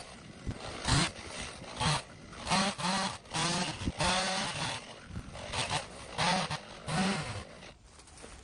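Geese honking repeatedly, a run of short, harsh calls, some drawn out and wavering, that die away near the end.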